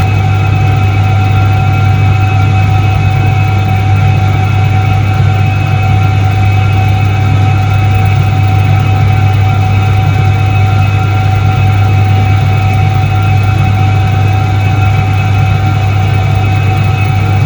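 1978 Soviet Iset-3 washing machine running: a loud, steady, unchanging low hum with a few steady higher tones over it.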